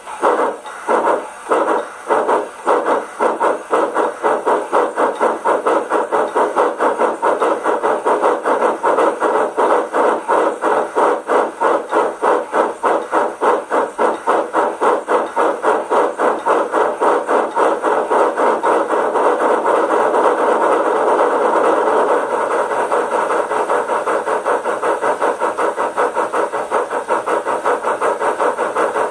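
Sound decoder of a Rivarossi Big Boy H0 model locomotive playing steam-exhaust chuffs through its small loudspeaker. The chuffs start at about two a second and quicken steadily until, about two-thirds of the way through, they run into a fast, nearly continuous beat, as the model speeds up.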